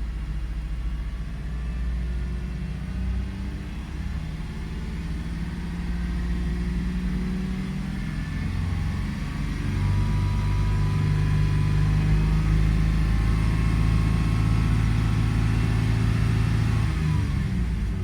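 Toyota 4Runner engine and road noise heard from inside the cabin while driving, with a steady low hum that grows louder from about halfway through. The engine is running smoothly with no stalling or misfire after its diagnosis for a start-stall condition.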